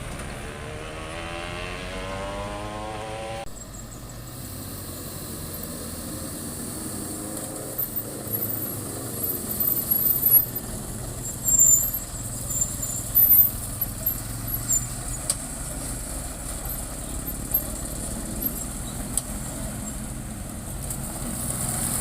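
Road vehicle engines: one engine speeds up with rising pitch for the first few seconds, then gives way suddenly to a steadier engine hum. A run of short, loud squeaks and knocks comes from about a third of the way in to past halfway.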